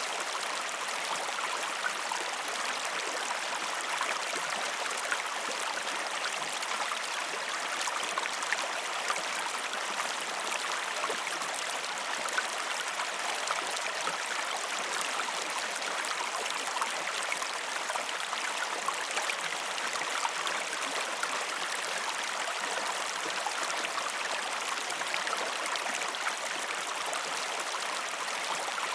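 River water rushing: a steady, dense wash of moving water, flecked with many small splashes.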